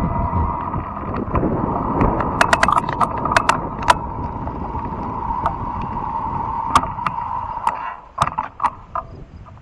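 Fat-tire electric bike riding along a trail: a steady whine over rolling and wind noise, with scattered sharp clicks and rattles. The riding noise falls away about eight seconds in, leaving only the clicks.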